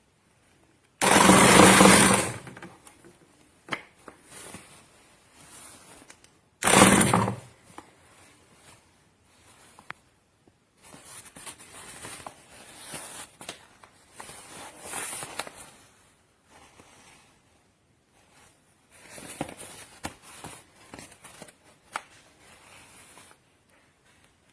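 Portable electric sack-closing sewing machine running in two short bursts, one about a second in and one about seven seconds in. Quieter on-and-off noise follows through the rest.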